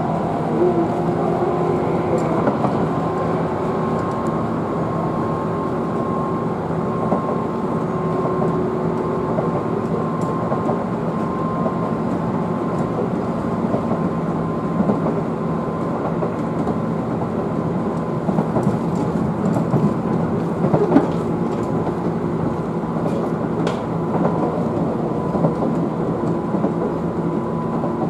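Running noise heard inside a Tobu 20000 series electric commuter car: a steady rumble of wheels and motors with a constant hum tone. A few light clicks and rattles come about two-thirds of the way through.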